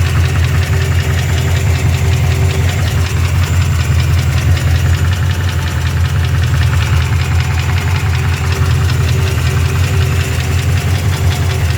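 Rebuilt 350 cubic-inch (5.7 L) V8 idling steadily with a rapid, even knock running through it. The owner does not know the cause and suspects rod knock.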